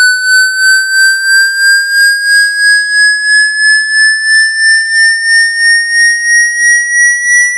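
Electronically generated water-eject tone for clearing a phone's port: a single buzzy synthetic tone with strong overtones, its pitch rising slowly through about 1.5 to 2 kHz and pulsing in loudness about three times a second.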